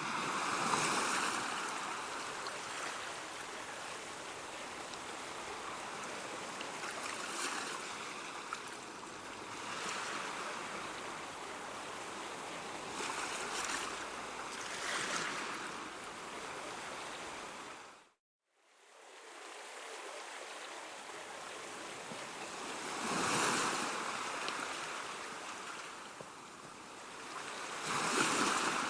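Ocean surf: waves washing in and breaking, the noise swelling and ebbing every few seconds. The sound cuts out completely for a moment about two-thirds of the way through, then fades back in.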